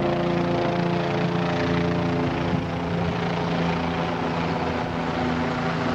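Steady engine drone: a constant stack of humming tones over a rushing noise, with no change in pitch.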